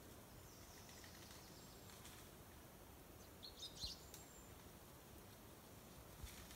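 Near silence, broken a little past halfway by a brief cluster of faint, high bird chirps.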